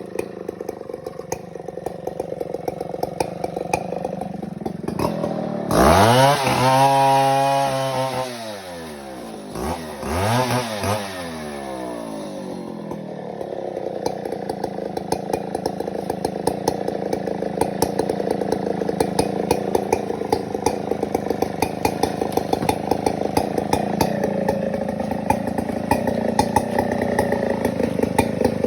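Stihl 070 two-stroke chainsaw idling, revved up twice about six and ten seconds in, the first rev longer than the second, before dropping back to idle.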